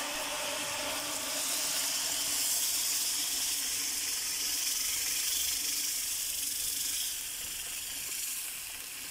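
Hot oil and butter masala in a karahi sizzling and hissing hard as wet ground saag greens are tipped in. The hiss swells about a second in and dies down after about seven seconds.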